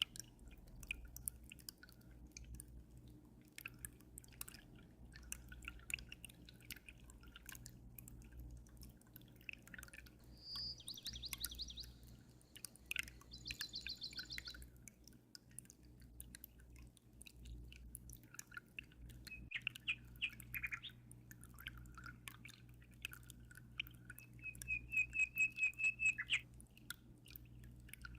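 Birds chirping in short bursts of fast trills and repeated notes, over steady aquarium water trickling and dripping with many small splashes and a low hum from the filter or pump. The bird notes come in several separate bursts, the loudest a run of quick repeated notes near the end.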